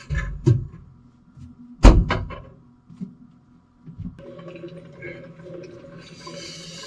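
A few knocks and clatters of handling, the loudest about two seconds in; then, about four seconds in, an electric coffee machine starts up with a steady hum, a hiss joining near the end as it begins to brew.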